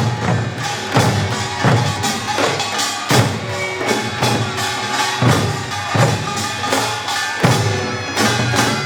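Korean pungmul ensemble playing: drums and gongs strike a steady beat about every three-quarters of a second, with a sustained melody over them.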